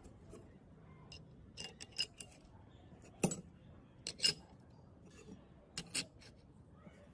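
Sharp clicks and clinks of metal parts and hand tools being handled, scattered irregularly, some in quick pairs, with the loudest a little past three and four seconds in.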